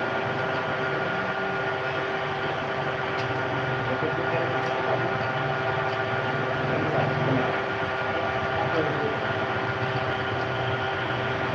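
A steady mechanical hum: several constant tones over an even noisy wash, unchanging in level, with faint indistinct voices under it.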